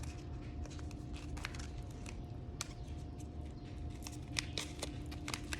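Scattered small clicks and rustles of a package of dried calendula being handled, over a steady low hum.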